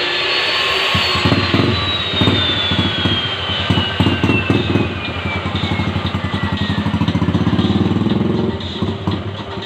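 Motorcycle engine running with a fast, even pulse. A high whine falls steadily in pitch over the first several seconds.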